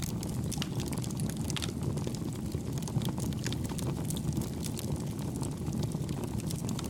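Campfire burning: a steady low rumble of flames under many small, irregular crackles from the burning wood, gentle and even in level.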